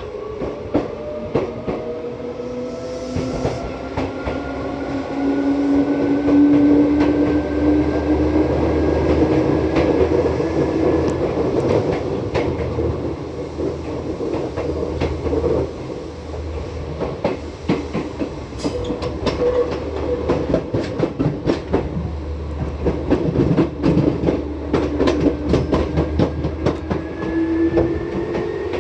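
Seibu 2000 series electric train running at speed, heard from inside the car. A whine rises in pitch over roughly the first ten seconds as it gains speed. The wheels click over rail joints through the middle, and a rising whine starts again near the end.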